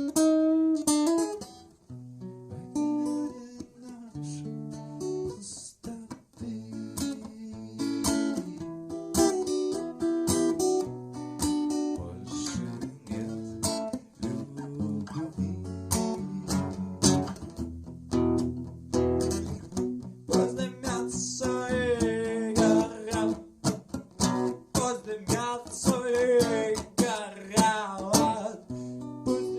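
Acoustic guitar played without singing: a run of plucked notes and strummed chords.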